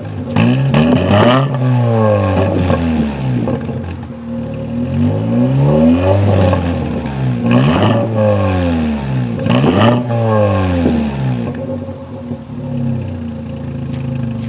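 1.0 litre 6N VW Polo engine being free-revved through an exhaust with the centre silencer removed and the baffles gone from the rear box, giving a loud, raw note. It is blipped several times, each time rising sharply in pitch and falling back more slowly, then settles into a steady idle near the end.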